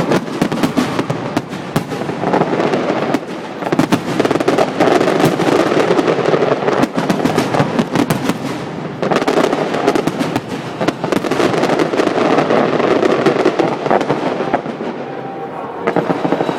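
Fireworks display: a dense, continuous barrage of bangs and crackling shells, easing off near the end.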